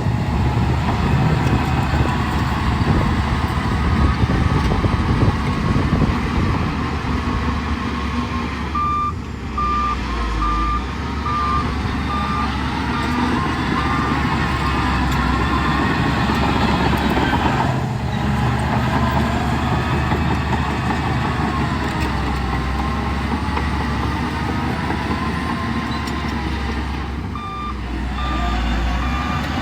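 Heavy diesel construction machinery running under load, with a reversing alarm beeping steadily, about one to two beeps a second, for several seconds about a third of the way in and again near the end.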